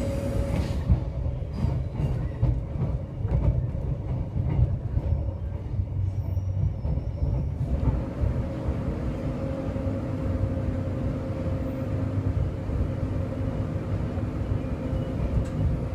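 Inside a Queensland Rail electric suburban train running along the track: a steady low rumble of wheels on rail with a constant hum, and a few clacks over the rails in the first few seconds.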